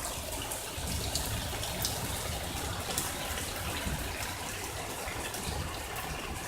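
Steady rain falling, with occasional sharp clicks of drops striking nearby.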